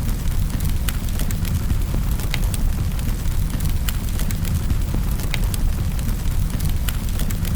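Wood fire burning in a fireplace: a steady low rumble with sharp crackles and pops scattered through it, several a second.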